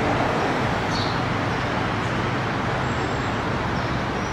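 Steady city street traffic noise, a dense even hum of cars, with a short high chirp about a second in.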